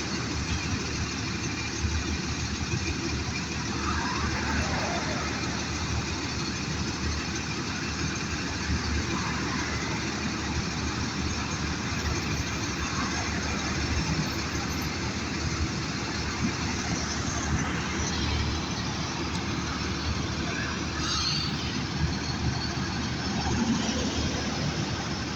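Motor vehicle engine running with a steady rumble and noise that holds an even level throughout.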